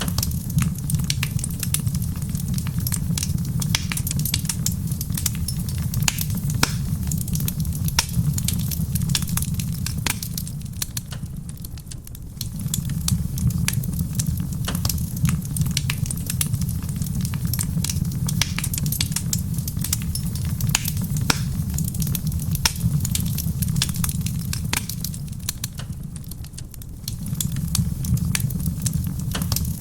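Wood fire crackling in a stone fireplace, with frequent sharp pops and snaps, over a soft patter of rain. A steady low rumble underneath fades down twice, about a third of the way in and again near the end, then comes back.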